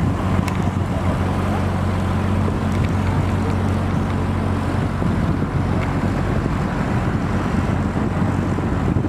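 Narrowboat diesel engine running steadily at low revs, a constant low hum.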